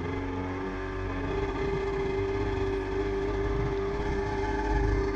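Stand-up jet ski's carbureted engine running, its pitch stepping up about a second in and then holding steady. It runs boggy and can't clean out, a sign of running too rich.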